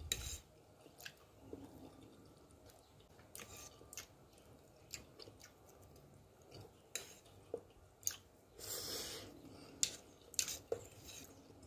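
A man chewing a mouthful of stew peas and rice, with scattered small clicks of a fork against a plate and a longer breathy noise about nine seconds in.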